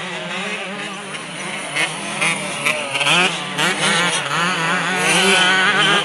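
Several motocross motorcycle engines running and revving at once, their pitches rising and falling as the riders work the throttles.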